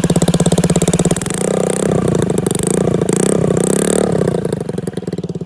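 Honda Ruckus 49cc four-stroke single-cylinder engine running through an aftermarket MNNTHBX GP V3 exhaust. It idles with a quick pulsing beat, is revved up and down several times from about a second in, and drops back to idle near the end.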